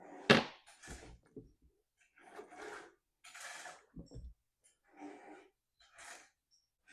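Small chainsaw clutch-side parts being handled and set down on a workbench. There is a sharp clack just after the start, then a series of short scrapes and rustles, with a low knock about four seconds in.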